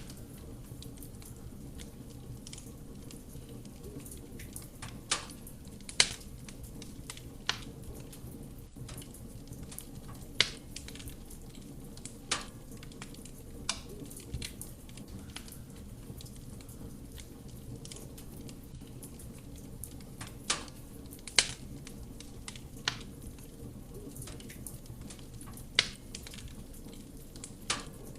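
Wood fire burning in a fireplace: a steady soft roar of the flames with about a dozen sharp, irregular crackles and pops from the burning wood, two of them much louder than the rest.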